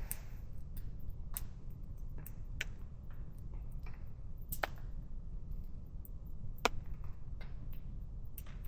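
Campfire of native hardwood logs burning, with a dozen or so sharp crackles and pops at irregular intervals over a steady low rumble of the flames.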